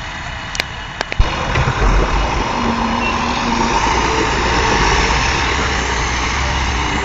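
A vehicle engine running steadily with a low rumble, coming in suddenly about a second in after a few sharp clicks.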